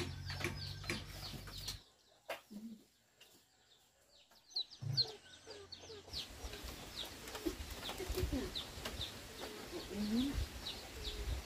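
Birds chirping: short, high, falling chirps repeating several times a second. They thin out for a few seconds after about two seconds in, then come back.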